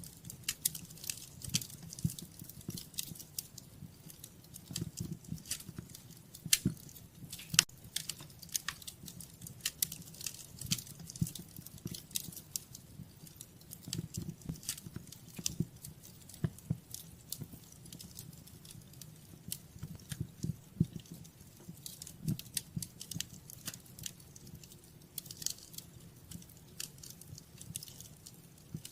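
Wood fire in a fireplace crackling, with frequent irregular sharp pops over a low, fluttering rumble of the flames.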